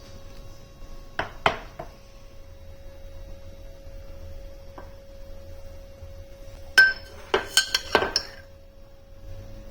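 Dishes and glassware clinking together: a few light knocks just over a second in, then a quick run of sharp, ringing clinks about seven seconds in, over a faint steady hum.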